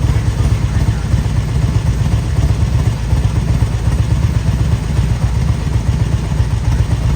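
Motorcycle engine running steadily with a deep, pulsing low rumble.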